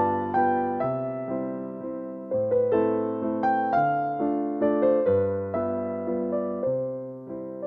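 Background piano music: a gentle melody of struck notes that fade, over slow-changing bass notes.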